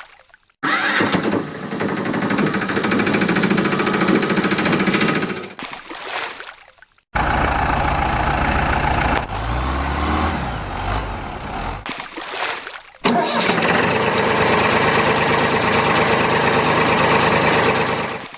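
An engine running in three separate stretches of several seconds each, every one cutting in abruptly and then stopping or fading. In the middle stretch its pitch rises and falls.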